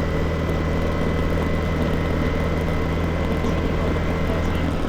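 Motorcycle engine running at a steady speed, an even low hum without changes in pitch.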